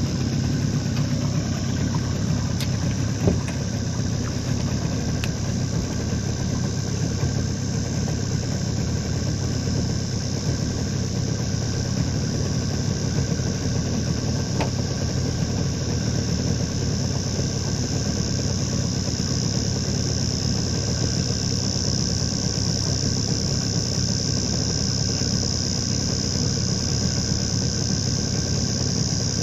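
Outboard motor of a small aluminium tinny running steadily as the boat travels along, with a single short knock about three seconds in.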